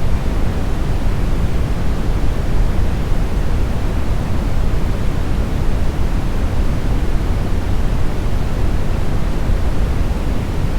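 Steady synthetic brown noise, smoothed: a deep, even rushing hiss weighted heavily toward the low end, with no changes or events.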